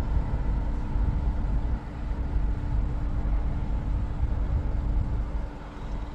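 Steady low rumble of a moving vehicle, with a faint constant hum above it.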